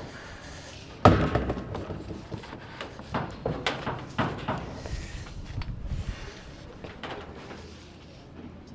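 Knocks and clatters of pipe and fittings being handled and positioned during plumbing work: one sharp knock about a second in, the loudest, then a run of smaller knocks.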